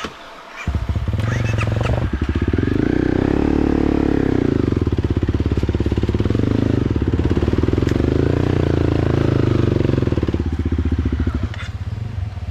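Motorcycle engine running close by, coming in suddenly about a second in, its pitch rising and falling twice as the throttle opens and closes, then easing off near the end.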